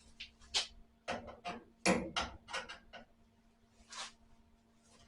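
Sheet-metal panel work on a car's spare wheel well: a run of short, sharp bursts of noise, each lasting a fraction of a second, with a heavier knock about two seconds in.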